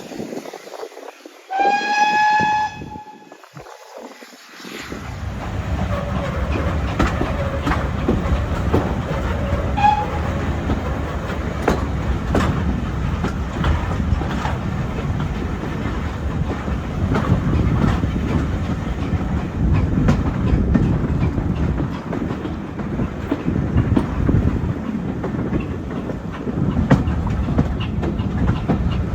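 Steam locomotive whistle blows once, briefly, about two seconds in. Then the train sets off: a steady rumble of railway carriages with clicking over the rail joints.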